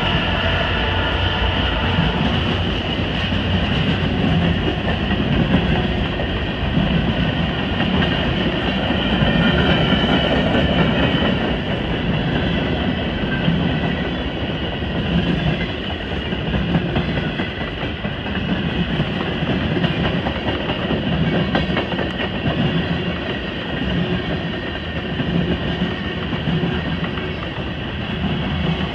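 Freight train cars rolling past at close range, the wheels clattering on the rails in a steady rumble that swells and eases every second or two. For the first couple of seconds the drone of the passing BNSF diesel locomotive is heard, fading as it moves away.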